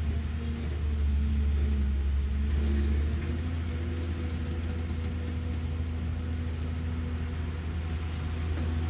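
Caterpillar excavator's diesel engine running steadily with a deep rumble, a little louder for a couple of seconds near the start.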